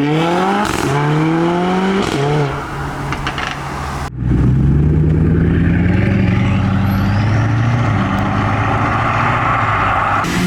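Car engine accelerating hard, its pitch climbing, dropping at a gear change about two seconds in, then climbing again. After a sudden break about four seconds in, a car engine runs at a steadier pitch.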